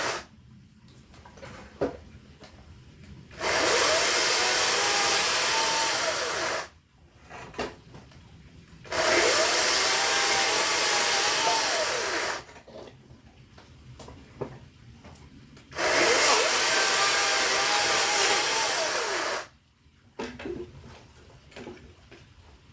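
Power saw cutting firewood in three bursts of about three seconds each. The motor's pitch dips as it bites into the wood and recovers, and the saw stops between cuts with a few small knocks.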